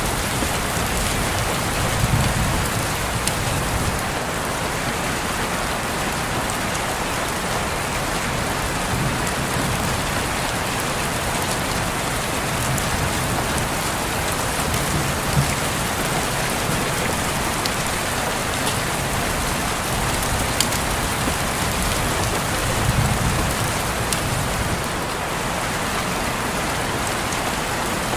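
Steady rain falling on a window, with now and then a sharper single drop tick and a few soft low swells.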